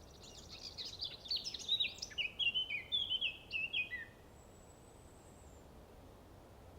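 A songbird singing a rapid, jumbled phrase of chirps that steps down in pitch and stops about four seconds in, followed by a faint thin high whistle.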